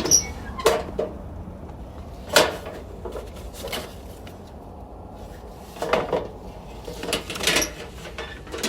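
Scattered light knocks and clatters of hard objects being handled, about half a dozen spread over several seconds, with the loudest about two and a half seconds in.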